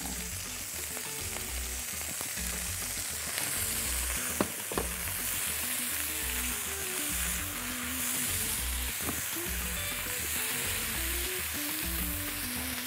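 Chicken breast cubes and chopped onion sizzling in hot oil in a stainless-steel pan, stirred with a silicone spatula. The frying hiss is steady, with a couple of sharp knocks about four and a half seconds in.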